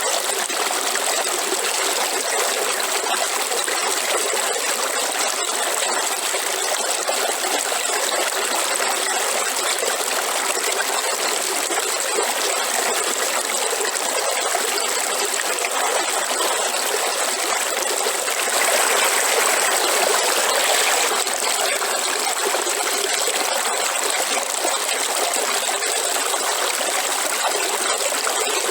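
Waterfall: a steady rush of falling water, swelling slightly for a couple of seconds past the middle.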